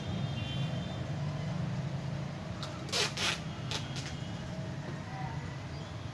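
Handling noises while a parcel is packed: two short rasping rustles about three seconds in, then a click, over a steady low hum.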